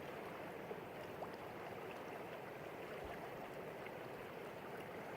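Steady, faint rush of flowing river water.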